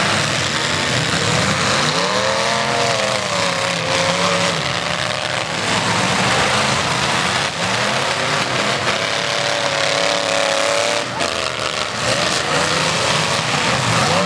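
Demolition derby cars' engines revving hard, their pitch rising and falling again and again as the cars accelerate and back off, with a sharp bang about three-quarters of the way through.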